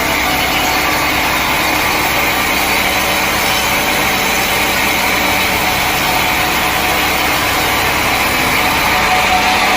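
Sawmill saw running steadily through a log, a continuous loud sawing noise with a hiss centred in the upper middle range.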